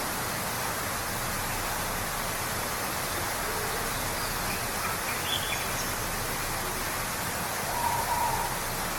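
Waterfall rushing steadily, with a few faint bird calls over it; the clearest is a short call about eight seconds in.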